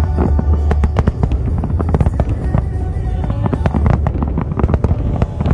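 Aerial fireworks bursting in rapid succession: a dense run of sharp cracks and pops over a constant low rumble of booms.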